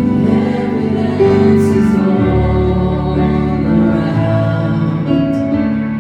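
Gospel worship music: voices singing together over held instrumental chords with a steady bass line.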